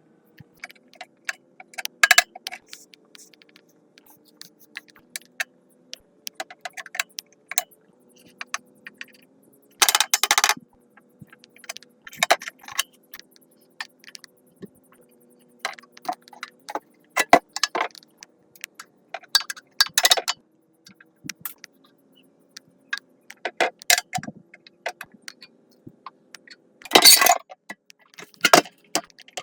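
Irregular metallic clinks and knocks of metal parts and hand tools being handled and set down, with a few louder, slightly longer clatters.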